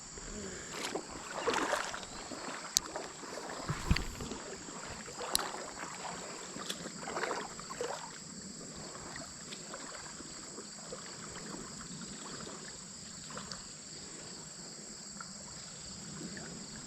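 Creek water sloshing and splashing around someone wading, in irregular bursts over the first eight seconds and calmer after, over a steady high buzz of insects.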